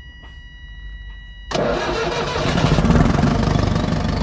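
A Cummins diesel engine turns over and starts about a second and a half in, then keeps running and grows louder near the three-second mark. Before it starts there is a faint, steady high whine.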